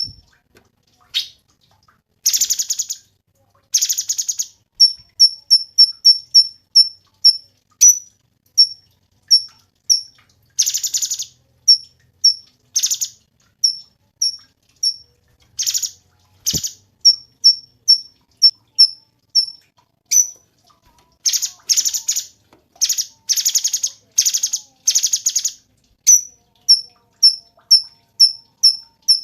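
Cucak cungkok singing: a long run of short, sharp, high notes repeated several times a second, broken every few seconds by dense, rapid trills lasting about a second or less.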